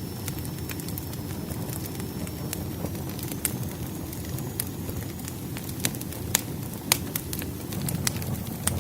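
Wood fire burning, a steady low rumble with scattered sharp crackles and pops, a few louder pops a little past the middle.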